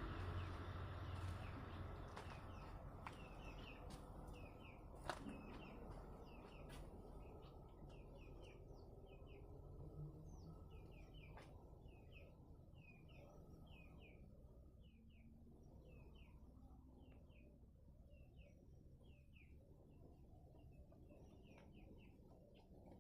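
Faint, repeated short chirps of a small bird, one or two a second, over a low steady rumble, with a few sharp clicks, the loudest about five seconds in.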